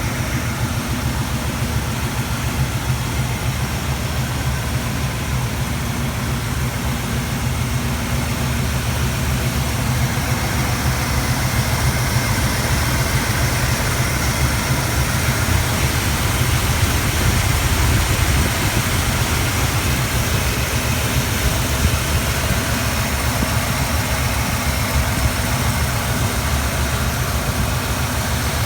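1980 Jeep CJ7 engine idling steadily.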